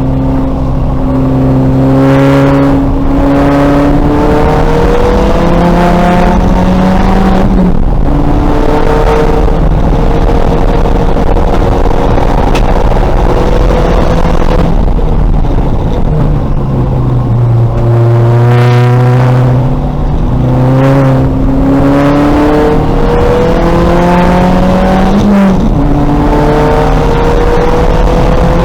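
2000 Volkswagen Golf race car's engine at racing speed, the revs climbing repeatedly through the gears with a sudden drop in pitch at each upshift. The revs fall away about two-thirds through before climbing again. A short sharp crack comes near the end.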